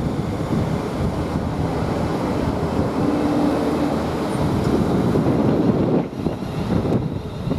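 London Northwestern Class 350 Desiro electric multiple unit running in along the platform, a steady rumble of wheels on rail with a faint low hum about three seconds in. The noise eases about six seconds in.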